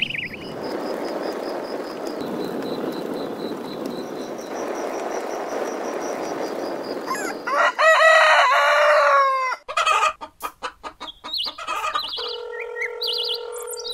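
Several seconds of steady rushing noise, then a rooster crowing once, about two seconds long, with its pitch falling at the end of each phrase. A quick run of clicks and a short steady held tone follow near the end.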